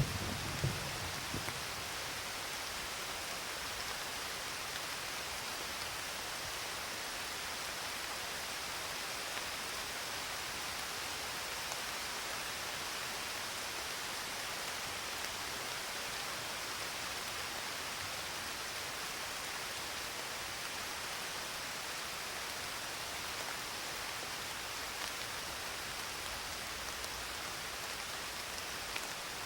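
Steady rain falling, an even hiss with no breaks. A low rumble of thunder dies away in the first second or so.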